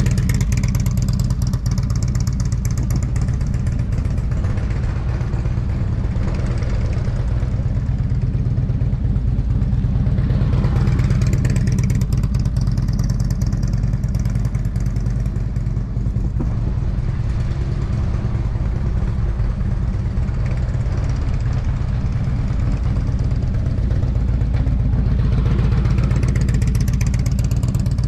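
Motorcycle engine running steadily at low revs, with a few brief swells in its note.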